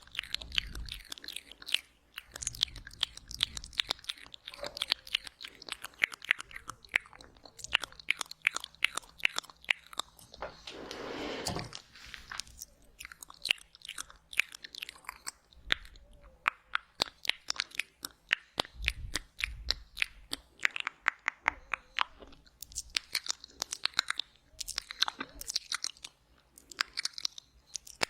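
Close-miked wet mouth sounds in the ASMR 'ear eating' style: a dense, irregular run of sharp wet clicks and smacks, with a longer breathy sound about eleven seconds in.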